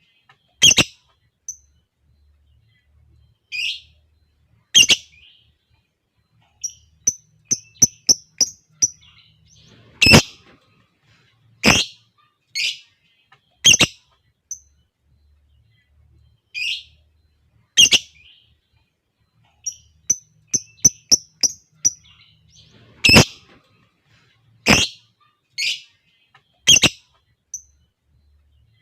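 Lovebird calling: single sharp, shrill calls every second or two, with two runs of quick ticking notes, one about a quarter of the way in and one about two-thirds through.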